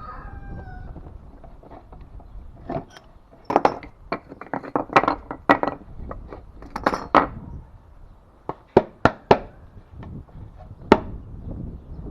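Irregular knocks and clinks of tools and wood boards being handled and set down, with a few sharp single strikes near the end. No saw is running.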